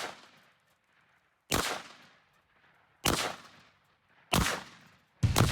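A string of single gunshots, about one every second and a half, each a sharp crack that dies away in a short echoing tail.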